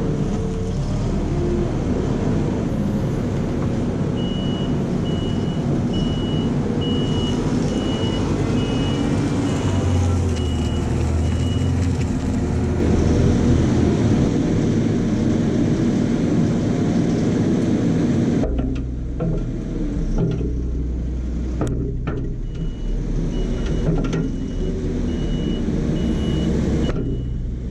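Kramer loader's diesel engine running, with its reversing alarm beeping steadily in two spells, about a third of the way in and again near the end.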